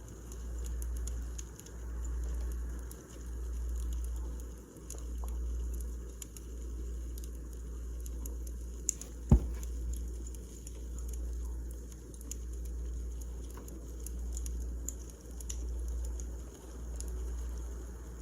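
Wood fire crackling, with scattered small pops over a low rumble that swells and eases every second or so, and one sharp pop about nine seconds in.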